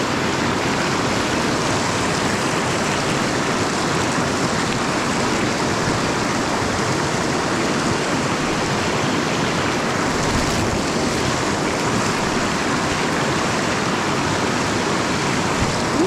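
Rushing stream water: a steady, even rush of flowing water.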